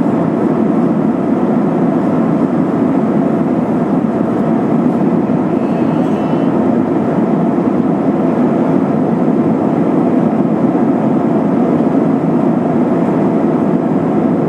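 Steady cabin noise inside an Airbus A320-232 in flight: the even rush of air past the fuselage mixed with the hum of its IAE V2500 jet engines.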